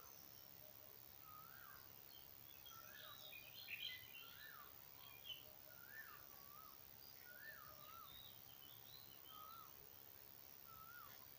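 Faint birdsong: one bird repeats a short whistle that rises and falls, about once a second, while other small birds twitter higher and more briefly, busiest a few seconds in and again past the middle.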